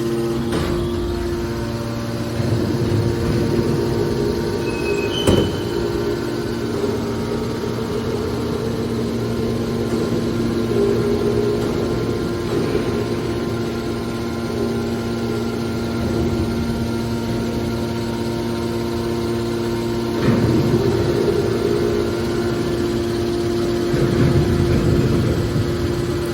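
Hydraulic scrap-metal baler running: a steady multi-tone hum from its motor and pump, with a sharp knock about five seconds in and a few swells of louder, rougher noise.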